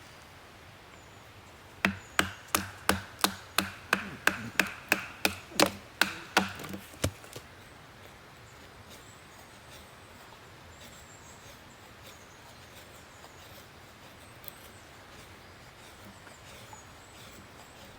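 About fifteen quick chopping blows on wood, roughly three a second, each with a short ringing tone. They start about two seconds in and stop around seven seconds. Quiet woodland background with a few faint ticks follows.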